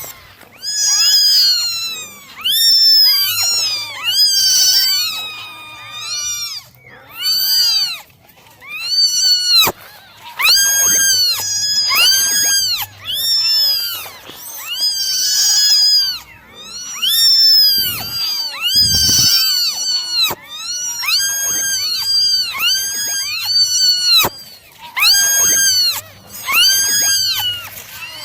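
Several kittens meowing over and over, high-pitched calls that rise and fall in pitch, often overlapping, with only short gaps.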